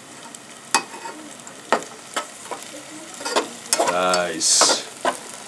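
Chopped onions and garlic sizzling in coconut oil in a saucepan, stirred with a utensil that knocks sharply against the pan several times.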